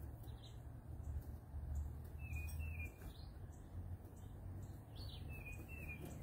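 Small birds chirping outside, short falling notes repeated every second or so, over a steady low hum.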